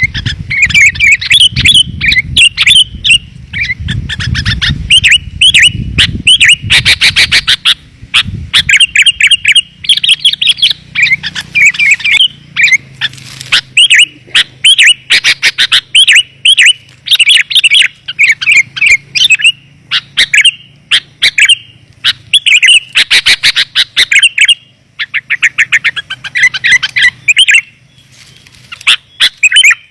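Sooty-headed bulbul (kutilang) lure call: rapid, dense runs of clear chirps, repeated phrase after phrase with short breaks, the kind of call played to draw wild bulbuls in. A low rumble lies under the first several seconds.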